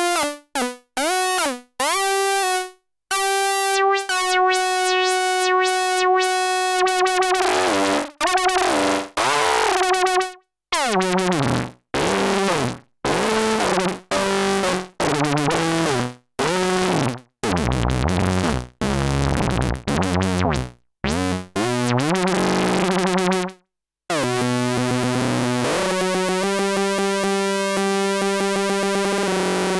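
Sequential OB-6 analog synthesizer playing single notes and short phrases with portamento, the pitch gliding into and between notes, separated by brief silences. A long held note fills the last few seconds.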